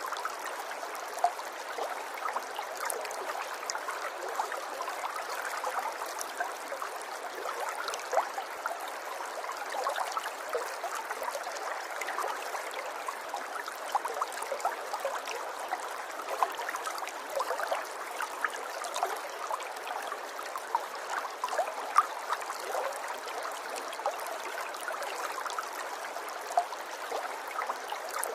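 River water trickling and gurgling steadily, a bright babble of many small splashes with no low rumble.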